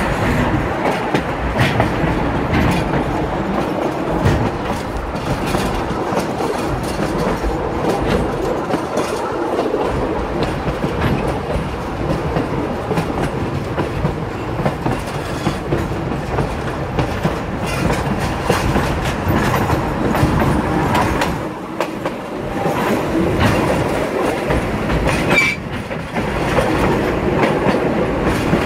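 Durango & Silverton narrow-gauge train running, heard from a riding car: the wheels clack and rattle over the rails in a steady stream of noise and quick clicks.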